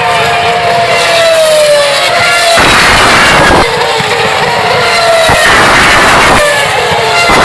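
Formula One cars' high-revving 2.4-litre V8 engines screaming past, their high notes falling in pitch as they go by, with two loud close passes in the middle and near the end.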